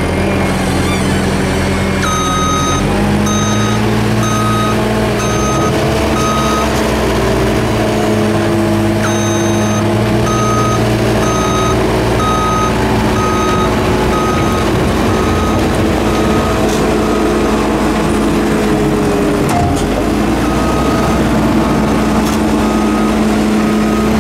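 Diesel construction machinery running steadily on a concrete pour, its backup alarm beeping about once a second in three runs as the machine reverses. The beeps stop twice for a few seconds.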